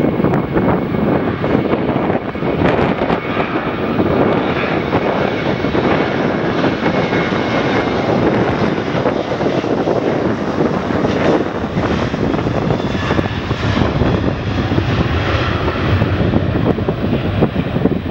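Airliner jet engines running: a loud, steady rush of engine noise with faint whining tones.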